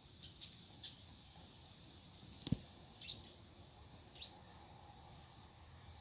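Faint, short, high bird chirps, a few single notes scattered through, some dipping slightly in pitch. A sharp click about two and a half seconds in is the loudest sound.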